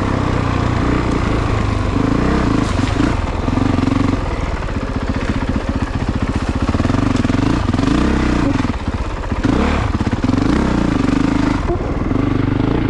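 2022 Honda CRF450RX's single-cylinder four-stroke engine running hard, its pitch rising and falling every second or two as the rider goes on and off the throttle.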